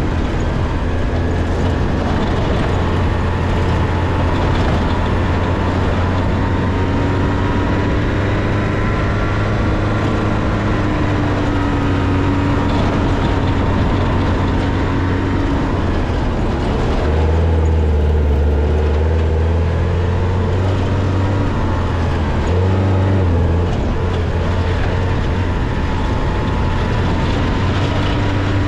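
Porsche 944's four-cylinder engine running through a rallycross run on dirt, its pitch rising and falling gently, with wind and tyre noise on a camera mounted outside the car; it gets louder for a few seconds past the middle. This is the engine that its owner says cuts power and hardly wants to go above about 10% throttle.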